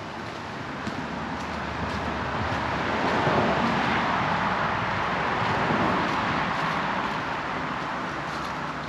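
A car passing on the road, its road noise building to a peak in the middle and fading away.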